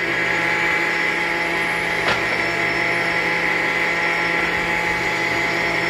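Sawmill circular saw running steadily with a constant whine, not cutting. There is one brief knock about two seconds in.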